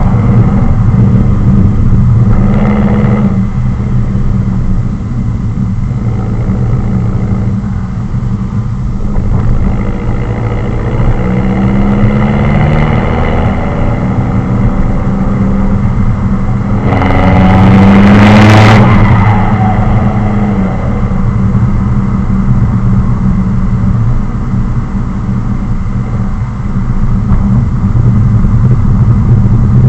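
Straight-piped Ford C-MAX exhaust running loud while driving. The engine note rises with acceleration a few times, with the loudest swell about two-thirds of the way through.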